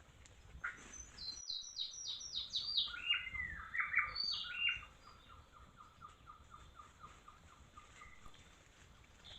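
A bird singing: a quick run of high notes that falls in steps, then a long even series of lower notes, about four a second, that stops near the end.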